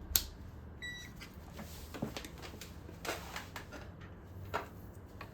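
A digital multimeter gives one short electronic beep about a second in, among light clicks and handling noises of the meter and its leads.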